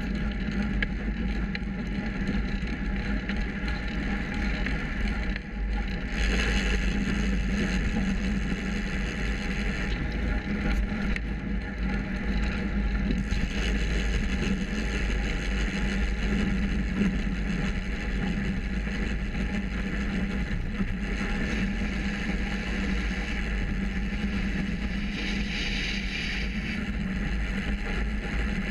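Steady rushing wind and road rumble picked up by a bike-mounted GoPro Hero 3 while riding a road bicycle, with a heavy low rumble throughout.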